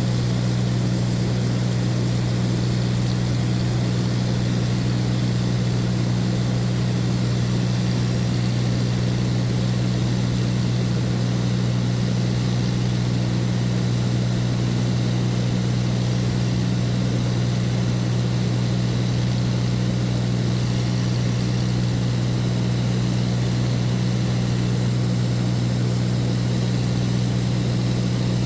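A light propeller aircraft's engine and propeller heard from inside the cabin in flight: a steady, loud low drone with a hiss of air over it, unchanging throughout.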